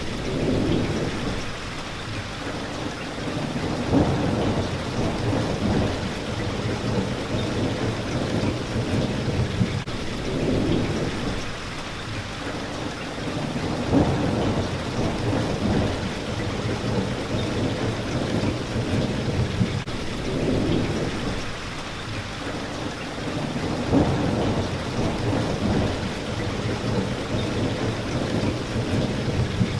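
Rain hitting a window as a steady hiss, with low rumbles of thunder that swell about every ten seconds.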